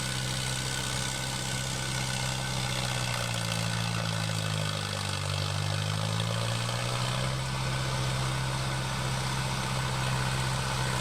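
Hindustan 60 4WD tractor's diesel engine running steadily while pulling a rotavator. Its pitch wavers in the middle, from about three to seven seconds in, then settles back to a steady note.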